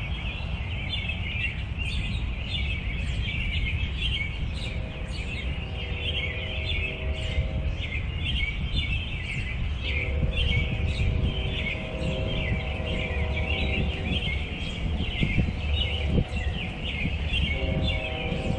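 Many small wild birds chirping and calling continuously, with a low rumble underneath. A steady low drone comes in and fades out a few times.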